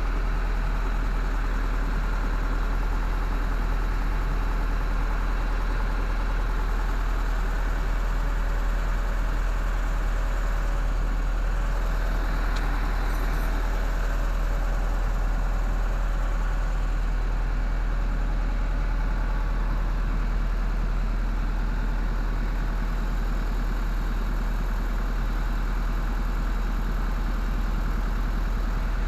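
Engine idling steadily, a low even drone.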